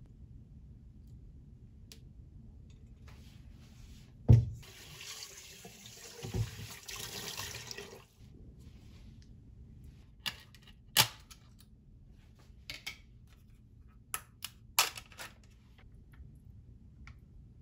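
A kitchen faucet runs for about four seconds and shuts off sharply, with a loud knock just as it starts. Several sharp clicks and knocks of kitchen items follow.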